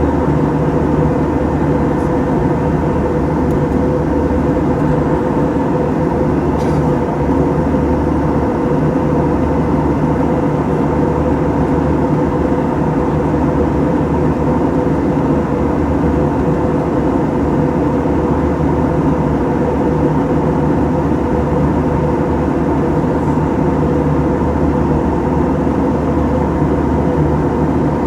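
Steady cabin drone of an Airbus A321 in flight: jet engine hum and rushing airflow at a constant level, with several steady humming tones.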